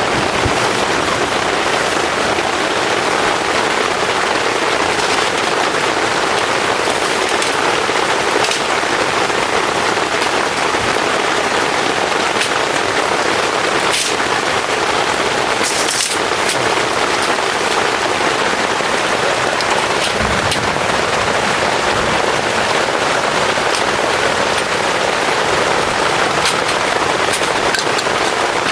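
Heavy rain falling steadily, with a few sharper drop hits standing out, two of them about halfway through.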